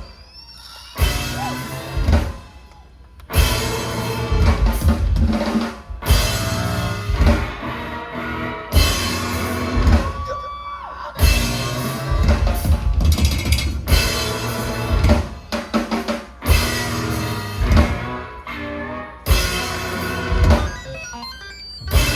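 Live rock band playing loudly, led by a heavy drum kit with kick, snare and cymbals, in stop-start bursts cut by abrupt short breaks.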